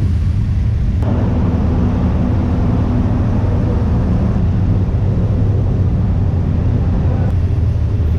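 Steady, loud low engine rumble on a ferry's lower vehicle deck, with a layer of extra noise joining about a second in and dropping away near the end.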